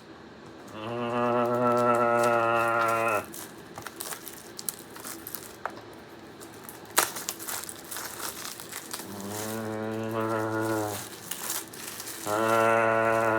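Plastic shrink-wrap crinkling and tearing as it is pulled off a DVD box set. Three long, steady low-pitched tones, each held for about two seconds, stand out above the crinkling: one near the start and two close together near the end.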